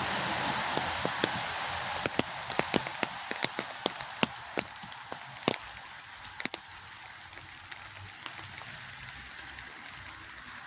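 Rain falling: a steady hiss with many sharp taps of close drops hitting a surface, thickest in the middle and thinning near the end, while the hiss eases off.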